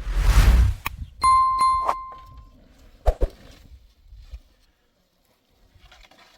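A loud whoosh, then a clear metallic ding struck about three times in quick succession that rings on for about a second, followed by two sharp clicks.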